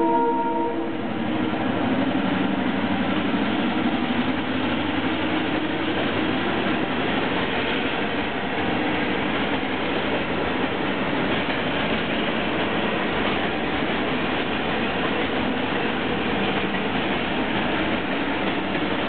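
The tail of an Amtrak GP38 diesel locomotive's horn cuts off within the first second. Then the locomotive and its train of track-maintenance machinery and ballast cars roll steadily past, with a continuous clatter of wheels on rail.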